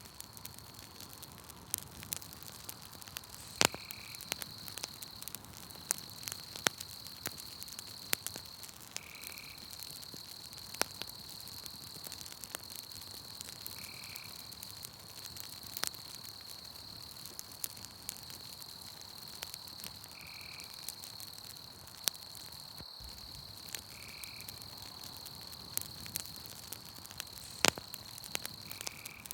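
Campfire crackling with scattered sharp pops, over a steady high-pitched trill of night insects. A short call repeats about every five seconds.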